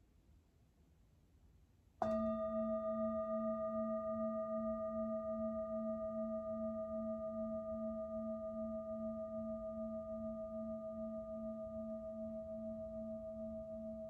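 Near silence, then about two seconds in a singing bowl is struck once and rings on, its low hum wavering in a slow pulse over several higher overtones as it fades gradually.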